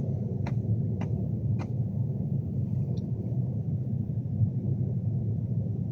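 Steady low rumble inside a Class 390 Pendolino carriage as the train runs along, with a few faint clicks in the first two seconds.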